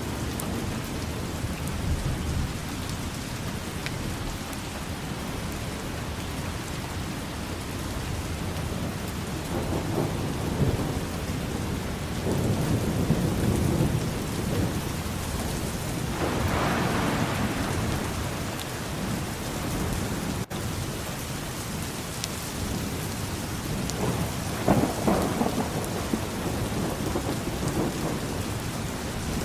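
Steady rain falling with thunder rumbling in the background, swelling several times: around the middle and again near the end.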